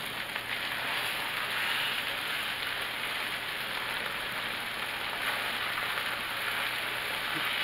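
Flour-dusted chicken breasts frying in butter in a pan: a steady sizzle.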